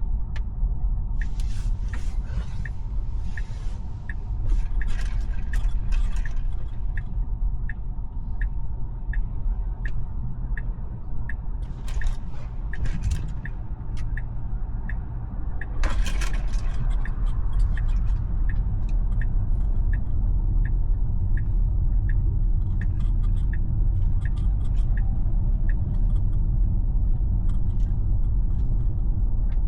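Road and tyre rumble inside a Tesla's cabin while driving, with a turn-signal indicator ticking evenly, about one and a half ticks a second, through most of the stretch. A few short swells of hiss rise over the rumble.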